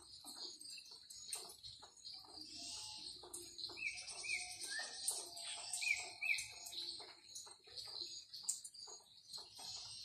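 Birds chirping and calling, with a short high note repeated in two pairs about halfway through, over a steady high-pitched hum.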